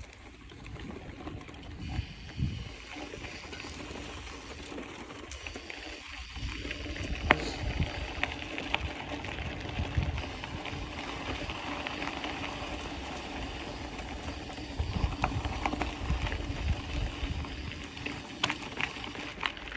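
Mountain bike riding over a dirt trail: tyre and trail noise with the rear freewheel hub ratcheting and scattered clicks, under irregular low wind rumble on the microphone.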